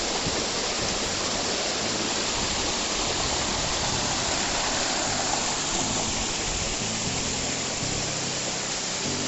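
Waterfall's water rushing steadily and loudly, cutting in suddenly at the start. Faint background music notes come in under it about halfway through.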